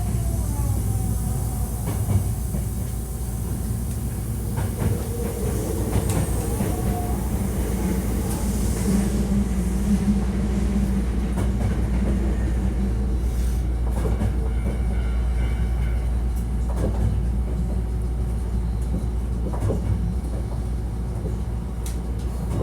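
Hankyu 1300-series electric commuter train running between stations, heard from inside the car: a steady rumble of wheels on rail with scattered clacks and faint whining tones that shift in pitch.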